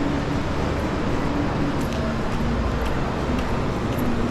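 Steady, loud rumbling din of city traffic and crowd, with faint voices mixed in.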